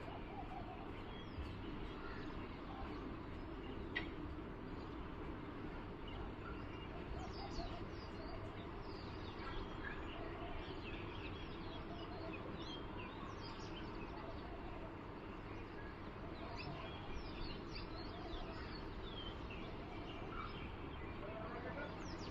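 Faint, scattered high chirps of small birds over a steady background hiss and low rumble.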